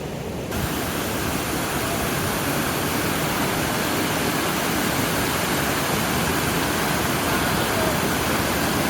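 Waterfall pouring: a steady, dense rush of falling water that steps up in loudness about half a second in.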